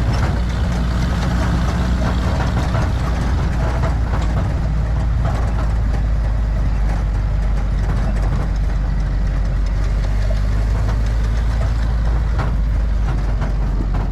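1952 M38A1 military Jeep's four-cylinder F-head engine running steadily, heard from on board.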